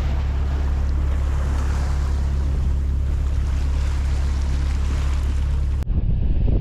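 Sailing yacht under way at sea: water and waves rushing along the hull over a steady low drone. Near the end the sound cuts abruptly to wind buffeting the microphone.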